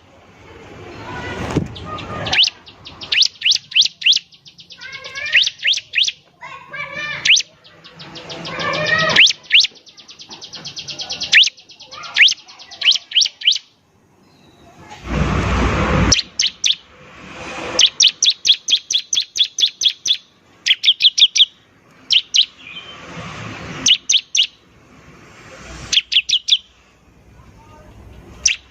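Bar-winged prinia (ciblek) singing hard: fast rattling trills of sharp repeated notes and buzzy chattering phrases in quick succession. A loud harsh rasp comes about halfway through.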